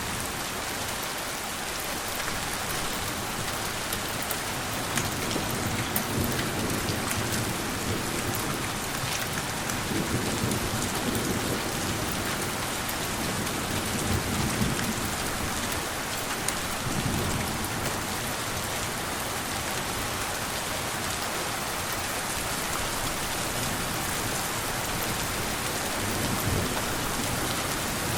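Steady rain falling on a surface with fine scattered drop ticks, and low rolls of distant thunder swelling and fading several times.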